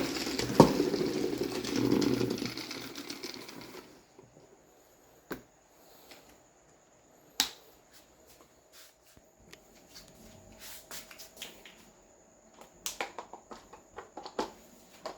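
A rushing noise fades away about four seconds in, followed by scattered light clicks and taps that come more often near the end.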